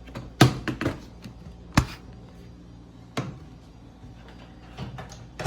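A laptop being handled and worked: a series of sharp knocks and clicks, a quick cluster about half a second in, single ones near two and three seconds in, and a louder knock at the very end.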